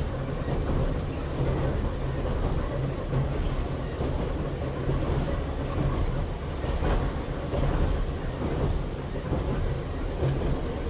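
Running sound inside a Kanbara Railway Moha 31 electric railcar under way between stations: a steady rumble of wheels on the track with a low hum that comes and goes.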